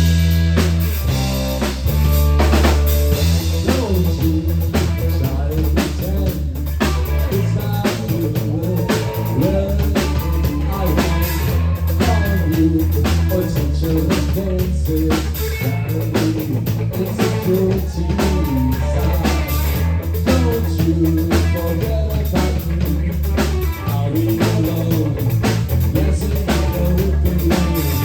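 Rock music playing: a drum kit keeping a steady beat under bass and electric guitar, with a wavering melody line over it.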